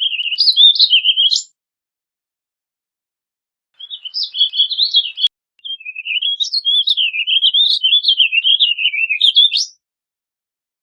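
Warbling vireo singing: rambling, warbled song phrases that jump quickly up and down in pitch. A short phrase comes at the start, another about four seconds in, and a longer one runs from about six seconds to nearly ten, ending on a rising note.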